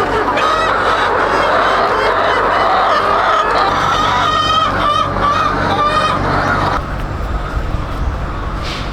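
A flock of domestic poultry calling together in a dense, continuous chorus of honking and clucking. The calls die down about seven seconds in, leaving a low rumble.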